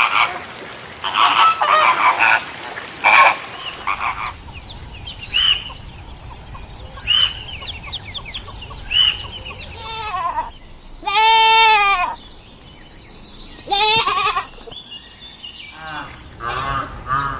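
Goats bleating: a series of separate calls, the longest and loudest a wavering bleat about eleven seconds in, with shorter calls before and after it.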